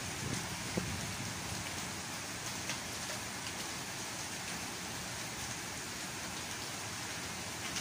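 Gentle rain falling steadily on leafy plants and a wet tiled walkway, with a few single drops ticking out above the hiss.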